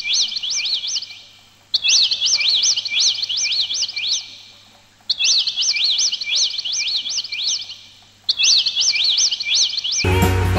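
Songbird chirping in four bouts of rapid, swooping high notes, each bout starting suddenly and fading away. Music comes in near the end.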